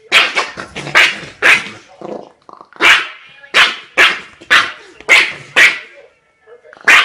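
A dog barking repeatedly, loud sharp barks about two a second, in a few short runs with a pause of about a second near the end.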